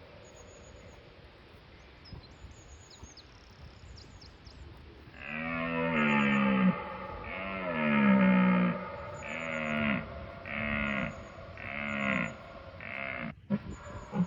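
A large animal calling in a series of about seven loud, pitched calls, starting about five seconds in and coming roughly once a second, each bending in pitch and growing shorter toward the end. Faint high chirps sound over a quiet background before the calls.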